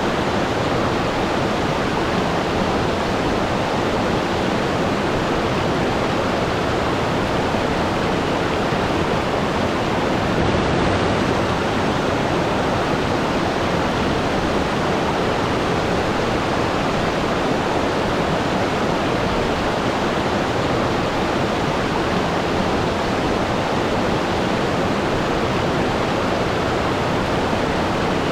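Waterfall: water falling and crashing in a steady, unbroken roar.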